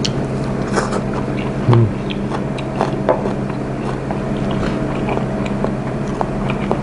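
A man chewing a mouthful of food close to a clip-on microphone, with small irregular clicks, over a steady low hum.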